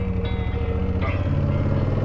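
Motorcycle engine running steadily while riding, a low pulsing rumble, with background music playing over it.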